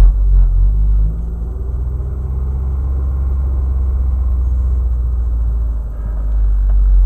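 Road and engine rumble heard inside a 2008 Chevrolet Cobalt while driving: a steady low drone that eases off briefly about a second in and again about six seconds in.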